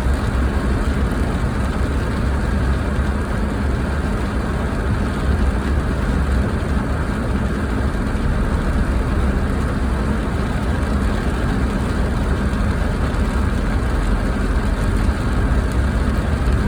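Car running steadily: a constant low rumble with an even hiss above it, without a break or change.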